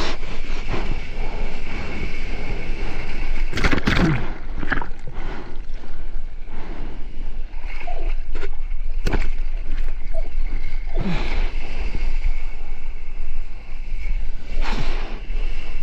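Ocean water sloshing and splashing, with a steady low rumble and a few louder splashes about 4, 9 and 15 seconds in.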